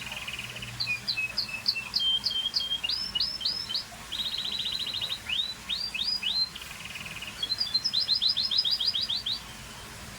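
Scotch Fancy canary singing a varied song of fast trills and repeated chirps, with a run of upward-sweeping notes in the middle, stopping about nine seconds in.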